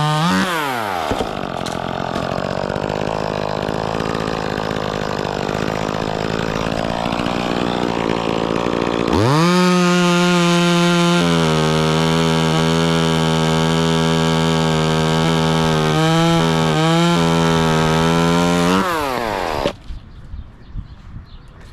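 Gas chainsaw cutting into wood: its revs drop as it bites in for about nine seconds, then it screams at steady full throttle with a couple of quick dips, and the throttle is let off about twenty seconds in.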